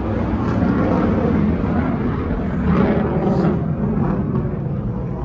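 Fighter jet engine noise in the distance, a steady low rumble that swells a little around the middle.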